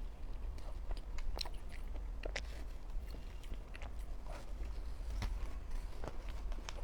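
Close-miked biting and chewing of a flaky-pastry mooncake: irregular soft crunches and mouth clicks.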